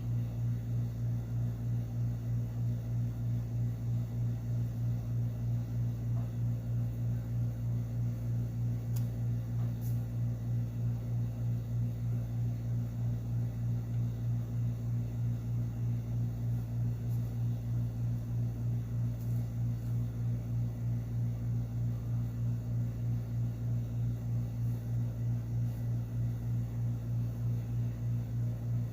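Steady low mechanical hum that pulses evenly several times a second.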